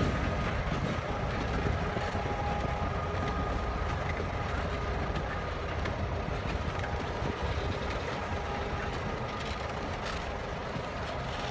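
Freight train rolling through a rail yard: a steady rumble of the moving cars, with faint wheel clicks and a faint thin squeal.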